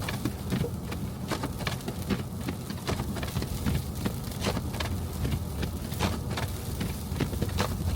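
Car driving through a snowstorm: a steady low road rumble with many irregular crackling clicks on top.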